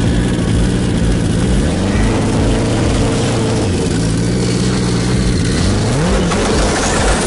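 Motorcycle engine running hard, its pitch climbing about two seconds in and again near six seconds, over a steady rushing noise.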